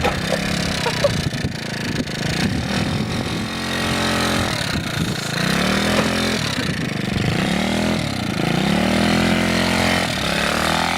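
Pit bike's small motorcycle engine running and being revved, its pitch rising and falling several times.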